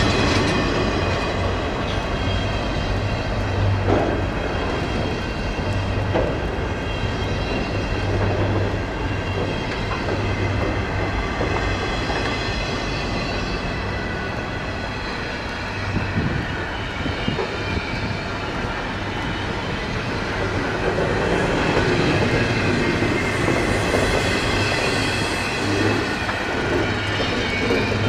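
Double-stack intermodal well cars rolling slowly past: steel wheels clack over rail joints with a continuous rumble, and the wheels give off a steady high-pitched squeal.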